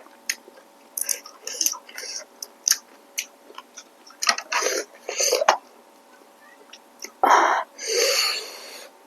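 Close-miked eating of rice noodles and shrimp: wet chewing with mouth clicks and smacks, and a few longer noisy bursts such as slurps, the loudest near the end.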